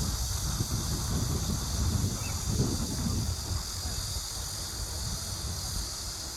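Outdoor park ambience: a low rumble, louder for the first three seconds and then easing off, under a steady high-pitched drone.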